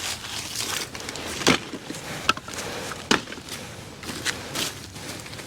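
Dry debris being worked by hand or tool: irregular scraping and crackling of dried droppings, dust and leaves, with a few sharp knocks, the loudest about a second and a half in.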